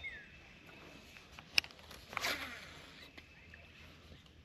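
Quiet outdoor sound: a bird's short falling chirp at the very start, then a single sharp click about one and a half seconds in, and a brief rush of noise just after two seconds.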